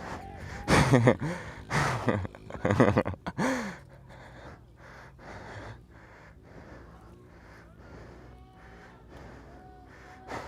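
Several loud exclamations from a group of people in the first few seconds, then quieter overlapping chatter of many voices.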